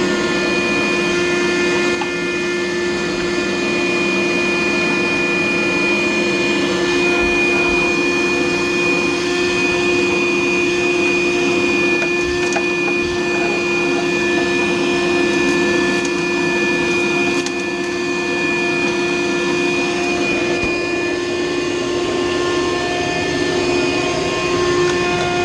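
Vacuum cleaner running steadily with a constant motor whine, sucking lint out of a clogged dryer vent.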